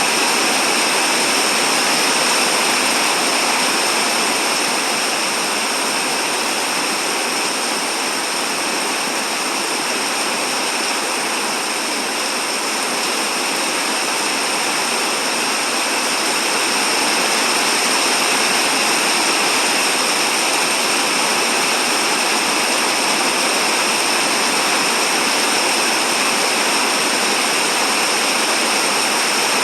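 Steady rain falling in a dense, even hiss that holds constant without let-up.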